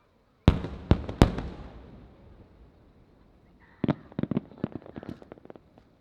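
Aerial firework shells bursting: three loud bangs within the first second and a half, echoing away, then a quick series of crackling pops from about four seconds in.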